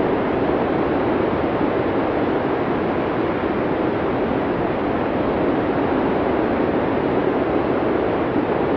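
Steady blizzard wind: an even rushing noise with no distinct gusts or breaks.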